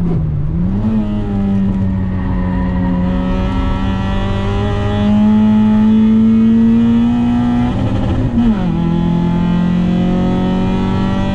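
Car engine heard from inside the cabin, pulling hard round a race track. Its note dips and recovers just after the start, climbs slowly and gets louder for several seconds, then drops sharply about eight seconds in, as with an upshift, and starts climbing again.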